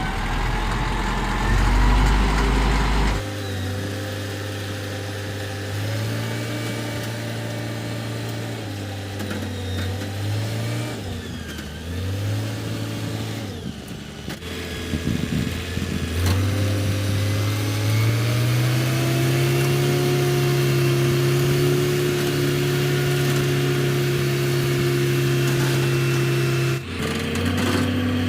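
A motor vehicle's engine running and changing speed, its pitch dipping and rising several times, then climbing to a steadier, higher drone past the halfway point. The sound changes abruptly about three seconds in and again near the end.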